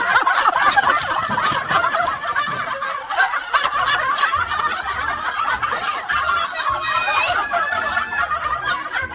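Several people laughing and chuckling together, many voices overlapping.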